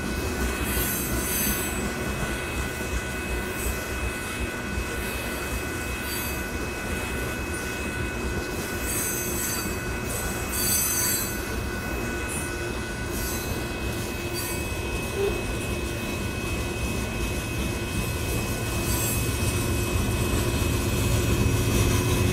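Loaded rock-train gondola cars rolling past at a grade crossing: a steady rumble of wheels on rail, with high wheel squeals coming and going. Over the last few seconds a deeper engine rumble grows louder as a locomotive at the rear of the train approaches.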